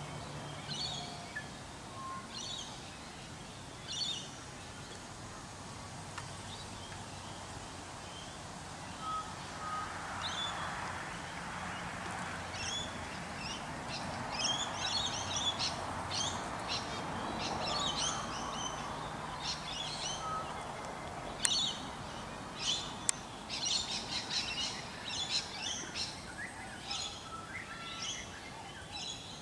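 Small birds chirping: many short, high calls, a few at first and then coming thick and fast through the second half, over a faint steady background noise.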